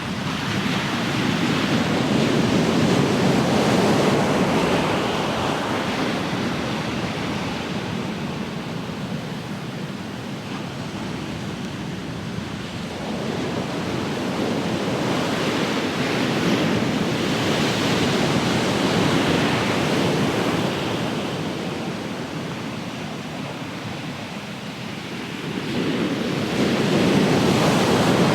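Ocean surf: waves breaking and washing up the shore as a continuous rushing wash that swells and ebbs, with three surges.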